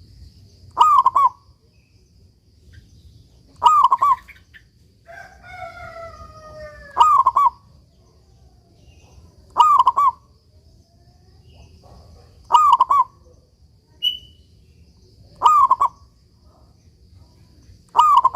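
A local zebra dove (perkutut) singing its short, clicking coo phrase over and over, about once every three seconds, seven phrases in all. About five seconds in, a quieter, longer call with a falling pitch, from another bird, runs just before one of the phrases.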